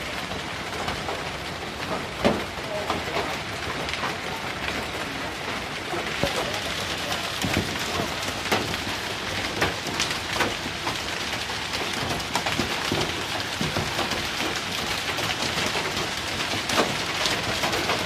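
Hailstones pelting down in a dense, steady clatter of many sharp individual impacts, growing a little heavier about six seconds in.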